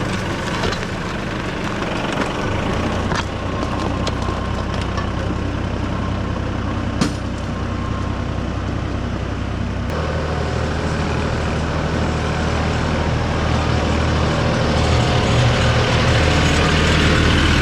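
Massey Ferguson 2606H compact tractor's diesel engine running steadily while working dirt, with a few sharp knocks along the way, growing louder in the second half.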